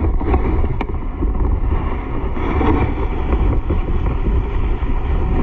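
Loud, steady wind buffeting the microphone, with a continuous rushing noise, as during fast travel.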